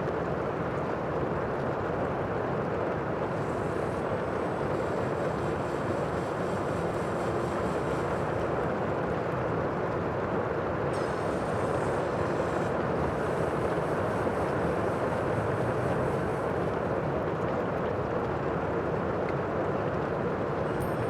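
Steady, even rushing of the sea and wind, with no single wave breaks or other events standing out.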